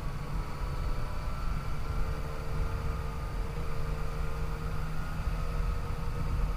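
Yamaha FJ-09 motorcycle riding at a steady pace, its inline three-cylinder engine holding a nearly constant pitch under a heavy, steady low rumble.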